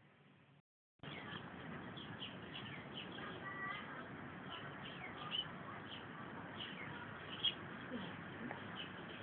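A chorus of small birds chirping, with many short, quick calls over a steady hiss of outdoor background noise. The sound cuts in about a second in, after a brief dropout.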